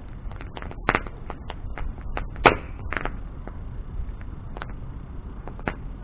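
Wood bonfire crackling, with irregular sharp pops of varying strength, the loudest about two and a half seconds in, over a low steady rumble.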